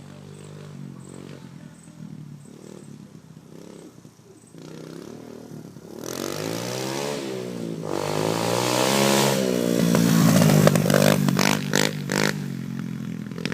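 Kawasaki KLX110's small single-cylinder four-stroke engine running through an FMF Powercore 4 exhaust, first fairly low and steady, then revving up and down as the bike rides and getting louder. It is loudest near the end, with a few sharp knocks.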